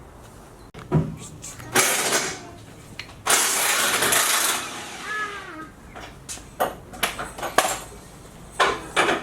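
Two bursts of a power tool working on the truck's suspension, the second longer, then scattered clanks and clicks of tools and metal parts.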